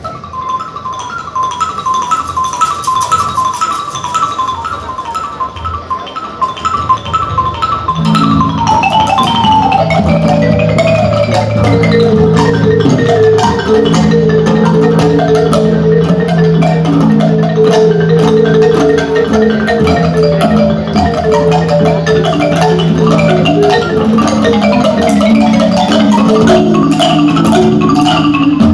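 Percussion ensemble playing marimba music: a fast repeated figure of high notes, then about eight seconds in a run falls in pitch and lower parts come in, fuller and louder.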